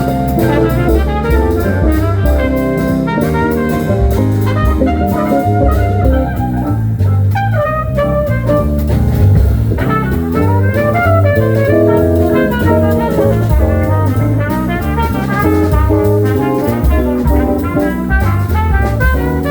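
Live band playing an instrumental jazz-blues passage: horns carry the lead over a drum kit and a bass line.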